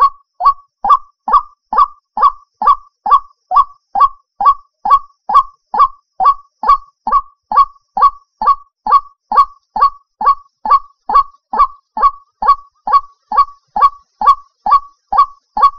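White-breasted waterhen (ruak-ruak) call played as a trapping lure: one short, honking note repeated with machine-like regularity, a little over two a second.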